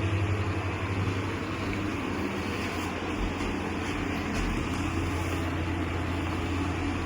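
A steady low mechanical hum under a constant even rushing noise, with no change in level.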